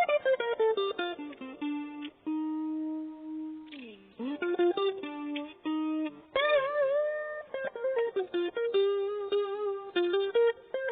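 A cheap maple-body guitar playing a picked single-note melody, with a sliding note about four seconds in and a stretch of wavering vibrato notes a little after the middle.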